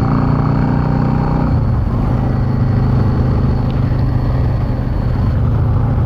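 Yamaha V-Star 650's air-cooled V-twin running under way, heard from the rider's seat with road and wind noise. The engine note drops to a lower pitch about one and a half seconds in and then holds steady.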